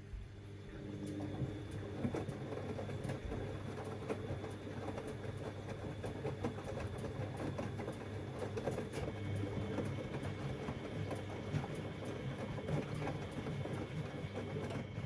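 Siemens Extraklasse XLs 140 A washing machine in its wash phase: the drum starts turning at the start and the motor hums steadily while wet laundry tumbles and sloshes with a busy clatter. A thin high whine joins about nine seconds in.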